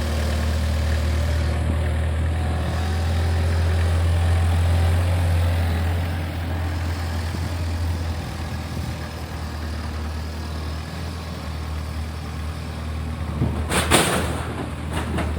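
A heavy engine running steadily with a low hum that eases off about eight seconds in. About fourteen seconds in comes a brief loud rushing noise with a few sharp clicks.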